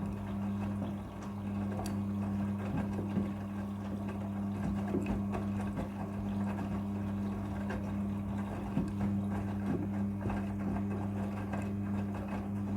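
Front-loading washing machine turning its drum: a steady motor hum with water and laundry sloshing and knocking inside the drum.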